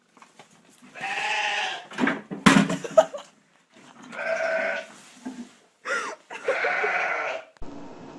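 An animal giving three long pitched calls about a second each, with a few sharp knocks between the first and second call.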